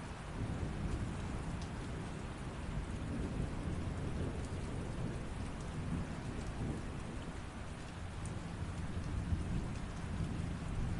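Steady rain falling, with a low rumble underneath that swells about half a second in and holds.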